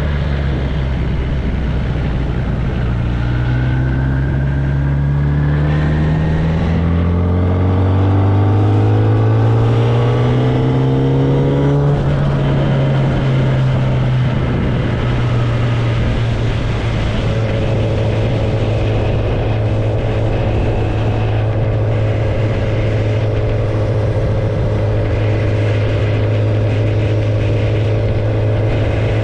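Kawasaki ZX-10R inline-four engine with no exhaust tailpipe, pulling up through the revs for several seconds a few seconds in, then holding a steady cruising pitch. Wind and road noise run underneath.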